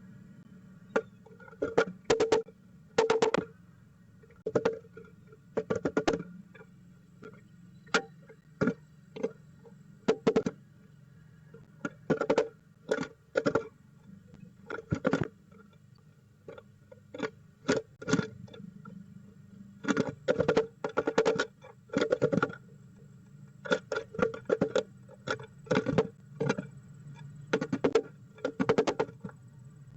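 Male downy woodpecker pecking hard at a box: clusters of rapid, sharp taps with short pauses between them.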